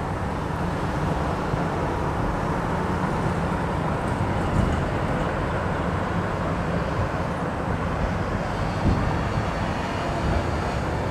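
Distant aerial fireworks going off, heard as dull thuds about four and a half seconds in and again near nine seconds, over a steady low rumble.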